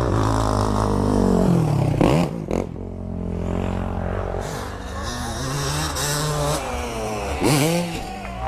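Motocross dirt bike engine revving, its pitch falling and rising repeatedly as the throttle opens and closes. Two sharp knocks about two seconds in.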